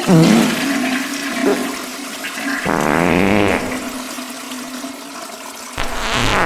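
Toilet flush slowed down and drenched in reverb. A wavering, pitched sound comes in about three seconds in, and another sound starts suddenly near the end.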